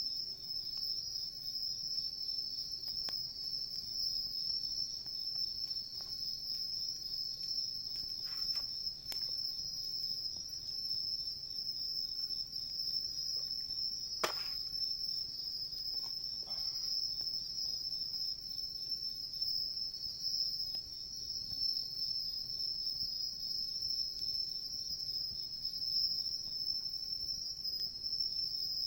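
Crickets and other night insects chirping in a steady high-pitched chorus. A campfire crackles now and then, with one sharper pop about 14 seconds in.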